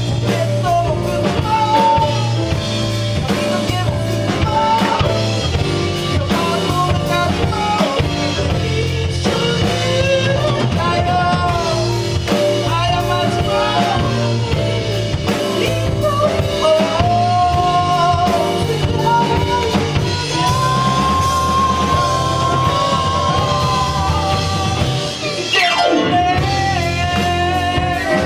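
Soul band playing: drum kit, bass and guitar keep a steady beat under a bending melody line. About 25 seconds in there is a quick upward sweep in pitch.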